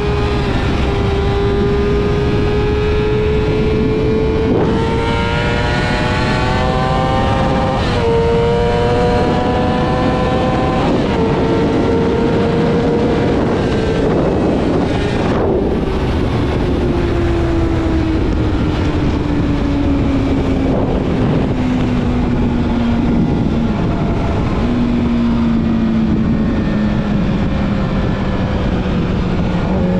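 Yamaha YZF-R6's inline-four engine through a full aftermarket exhaust system, heard while riding. Its note climbs in steps over the first half, then falls slowly and evenly through the second half as the bike slows, with wind rush throughout.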